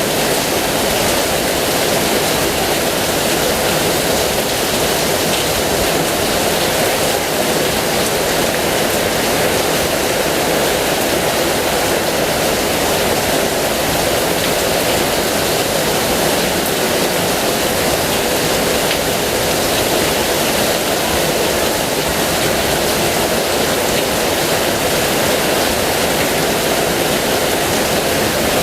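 Heavy rain falling in a steady, even downpour, with no let-up or thunder.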